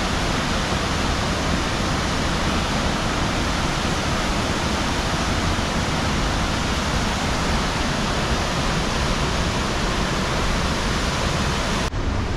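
River water rushing and raging over rocks, a loud, steady, even rush of white water.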